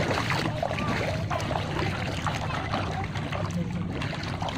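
Water sloshing and splashing as a bicycle is pushed through shallow floodwater, over a steady low rumble.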